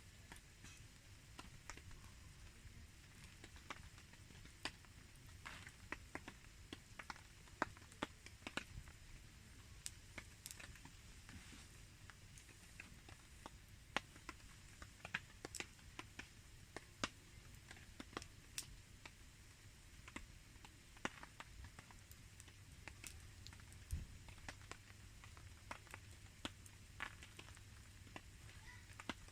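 Rain and a campfire: scattered sharp pops and ticks, a few a second and irregular, over a faint low rumble.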